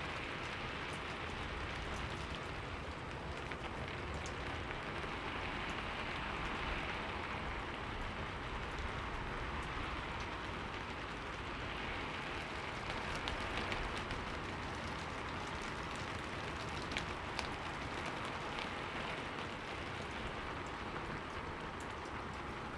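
Steady rain falling, with scattered individual drops ticking against a window pane.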